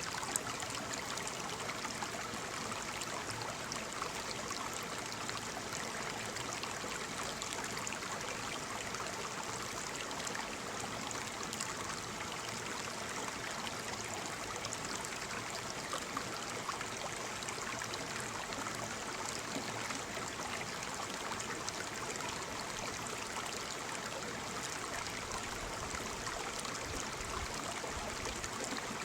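Small waterfall splashing and streaming steadily into its pool, an even rushing hiss with fine splashes and no change in pace.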